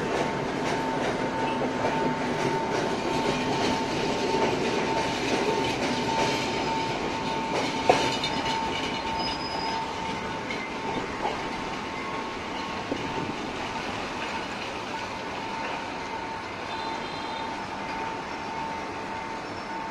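Passenger train rolling over the rails and pulling away, its wheels clicking over the rail joints as the sound slowly fades. A steady high tone runs through it, and there is one sharp clack about eight seconds in.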